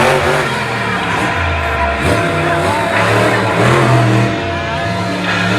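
Monster truck engine revving up and down repeatedly, with loud music playing over it.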